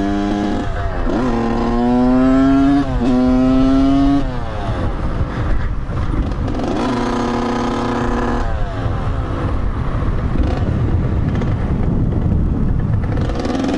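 Dirt bike engine accelerating hard, its pitch climbing, dropping at a gear change about three seconds in and climbing again, then easing off; it holds a steady cruise around seven to eight seconds, with wind rushing over the microphone throughout.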